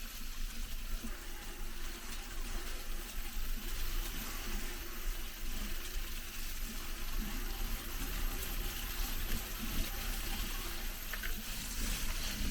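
Steady rush of flowing water, a stream or waterfall, with a constant low rumble beneath.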